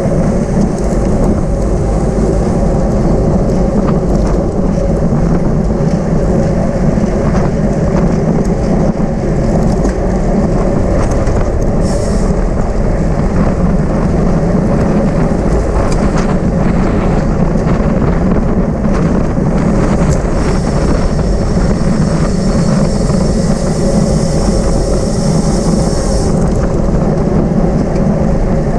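Steady rush of wind and road noise from a bicycle moving at racing speed, with a high whine for about six seconds near the end.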